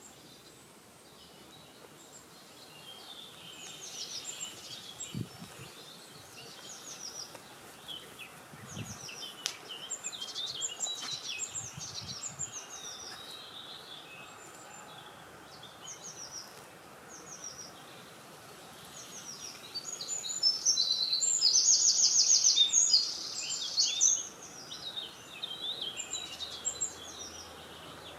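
Several small songbirds singing and chirping in short phrases, one of them giving a loud, rapid trill of repeated notes about twenty seconds in, over a faint steady background of outdoor noise.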